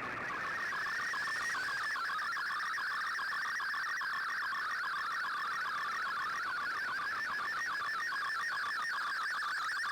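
Shortwave digital-mode data signal from an Icom IC-R8600 receiver: a dense warble of rapidly shifting tones packed into a narrow band, the MFSK or SSTV transmission of Shortwave Radiogram being decoded, with faint hiss behind it.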